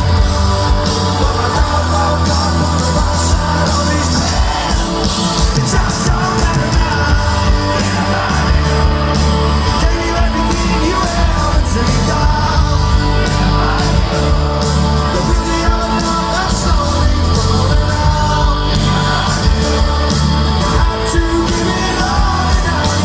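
Live rock band playing, with guitars, bass and drums under sung vocals, loud and steady throughout.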